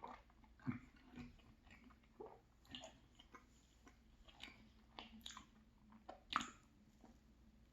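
Quiet, close-up chewing of a chocolate chip muffin: soft, irregular mouth clicks and smacks, the sharpest one about six and a half seconds in.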